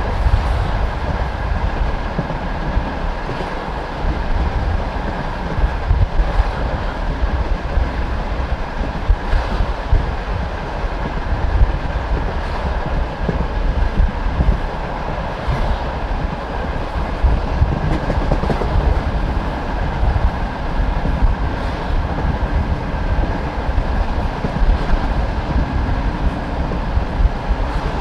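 Passenger train carriage running steadily along the track: a continuous rumble of wheels on rail, with the clack of wheels over rail joints every second or two.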